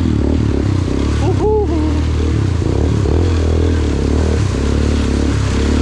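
Honda CRF150 dirt bike's single-cylinder four-stroke engine running steadily as the bike wades through a shallow river, water splashing off the front wheel. About a second and a half in, a short voice sound rises and falls over the engine.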